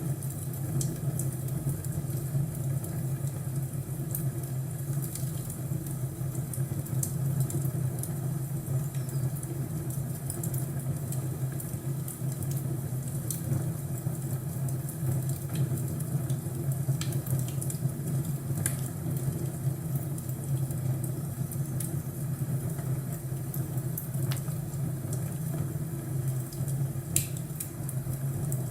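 Crackling fireplace: a wood fire giving scattered sharp pops and crackles over a steady low rumble.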